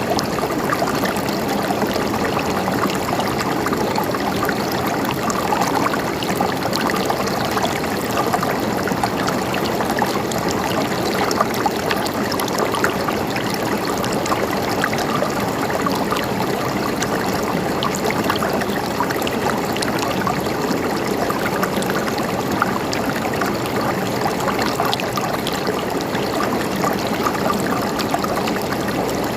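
A stream running steadily, its water gurgling and trickling with no let-up.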